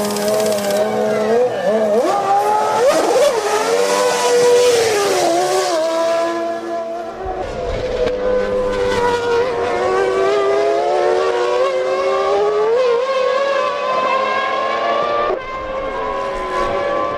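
1998 Formula One cars' 3-litre V10 engines at high revs, the pitch climbing and dropping through gear changes and braking, then rising steadily for most of the second half.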